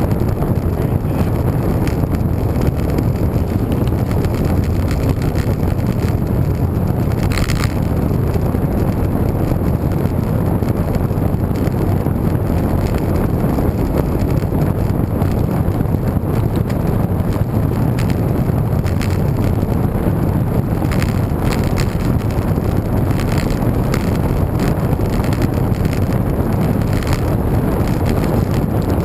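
Steady wind rushing over the microphone of a camera on a moving road bike, heaviest in the low end. There is a short click about seven and a half seconds in, and a few light ticks later on.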